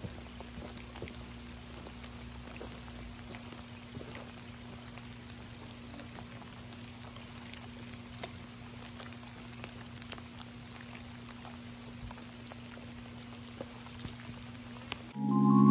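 Light rain falling: scattered raindrop ticks over a soft steady hiss, with a faint low hum underneath. Marimba-like music cuts in about half a second before the end.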